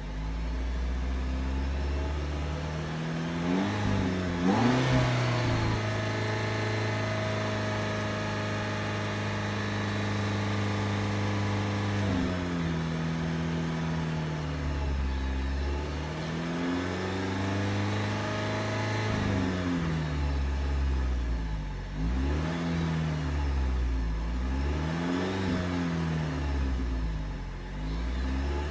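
Jeep Patriot's four-cylinder engine being revved, heard at the tailpipe. It climbs about four seconds in, holds high until about twelve seconds, drops back, then goes through a series of revs up and down in the second half. The engine is being revved to burn off a Seafoam intake treatment.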